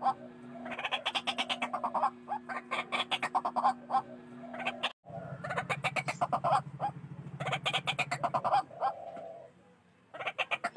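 White-breasted waterhen calling: several bouts of rapid, harsh notes repeated many times a second, with a short break about five seconds in and a pause near the end.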